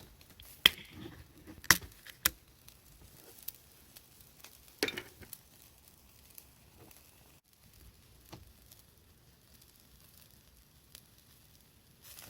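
An Asahi Super Dry Nama Jockey beer can being handled and opened: a few sharp metallic clicks in the first couple of seconds, then a short crack and hiss about five seconds in as the lid comes away, over a faint sizzle of skewers grilling on charcoal.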